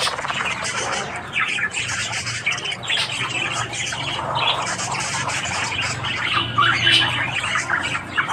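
Several budgerigars chattering continuously, a dense mix of warbles, chirps and short squawks with no pauses. A faint low hum runs underneath.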